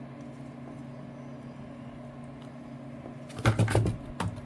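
A steady low hum runs throughout. About three and a half seconds in comes a short burst of knocking and clattering from containers and tools being handled, and a single click shortly after.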